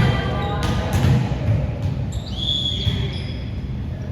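Basketball bouncing on an indoor gym court, a few sharp thuds in a large echoing hall, with a brief high squeak about two and a half seconds in.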